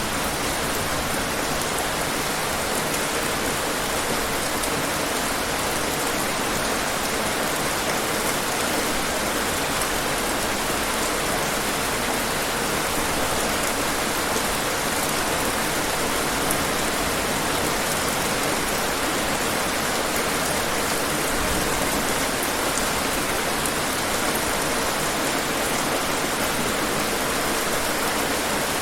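Steady rain falling and pattering on hard surfaces, an even hiss with faint scattered drop ticks.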